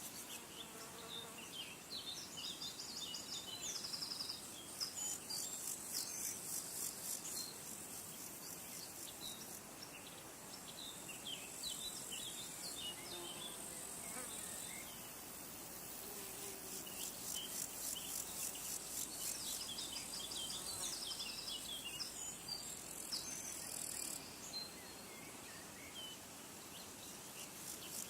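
Insects trilling in very high-pitched, fast-pulsed stretches that stop and start again several times, with many short bird chirps scattered throughout.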